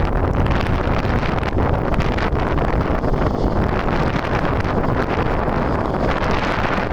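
Strong gusty wind buffeting the microphone: a continuous, uneven low rumble and rush.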